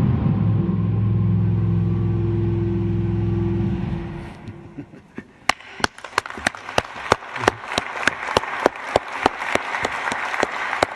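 A deep steady drone ends about four seconds in. An audience then breaks into applause, starting with a few scattered claps and building to dense clapping.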